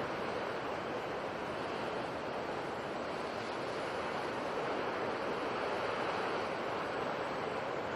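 Sea surf making a steady, even rushing noise, with no separate waves standing out.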